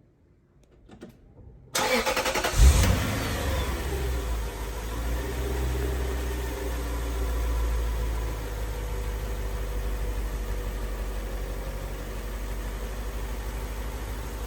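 The 2003 Lexus SC430's 4.3-litre V8 is started: a few faint clicks, then the starter cranks briefly about two seconds in. The engine catches with a loud flare and settles into a steady idle.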